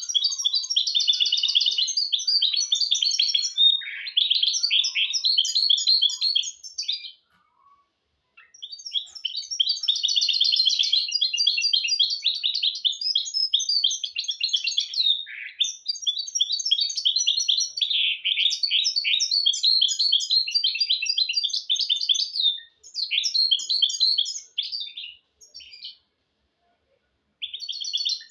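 Hybrid finch (mule) singing long, fast, high twittering song phrases, with a pause about seven seconds in and a short silence near the end. It is used as a tutor song for teaching goldfinches and canaries.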